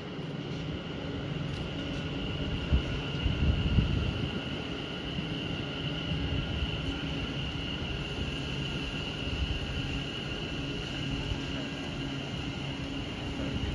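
Train running steadily, with a constant high-pitched whine over a low hum. A few low buffets of wind on the microphone come about three to four seconds in.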